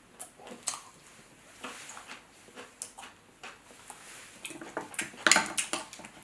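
Eating sounds from a seafood boil: scattered clicks and crackles of crab shell being handled and broken, with wet chewing, loudest in a cluster a little past five seconds in.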